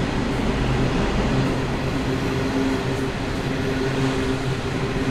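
Loaded coal hopper wagons rolling past on the track, a steady rumble with a low hum that comes and goes.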